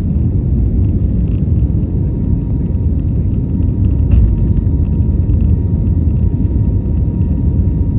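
Steady low rumble of cabin noise inside an Airbus A320neo airliner in flight, with a faint thin steady tone above it.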